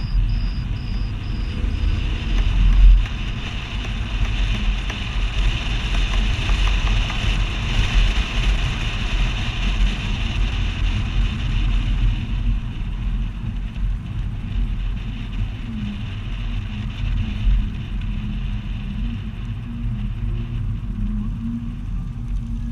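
Car on the move, heard from a camera mounted on the outside of its door: a steady low rumble of engine and tyres on the road, with wind rushing over the microphone that swells in the middle and eases after about twelve seconds.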